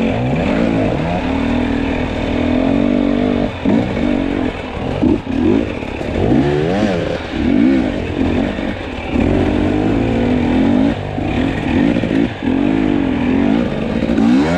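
Two-stroke enduro dirt bike engine revving up and down again and again as the throttle is worked over rough ground, with some clatter.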